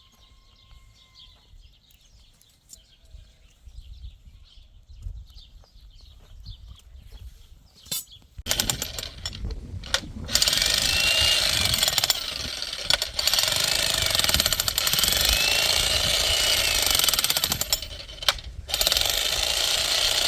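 Faint bird calls over near quiet, then about eight seconds in an electric demolition hammer starts and hammers loudly and steadily, pausing briefly twice.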